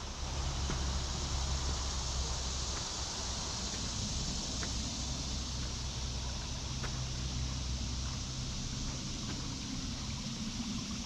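Creek water running steadily, with a low steady rumble underneath and a few faint ticks.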